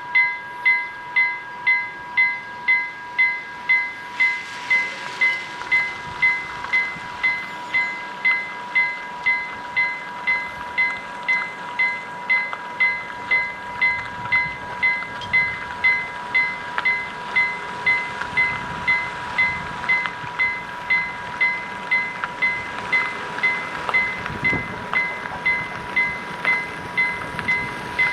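Level crossing warning bell ringing steadily about twice a second. A growing rush of noise from the approaching train comes in behind it and swells near the end.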